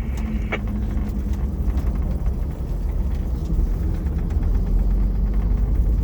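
Fire truck's engine running with a steady low rumble.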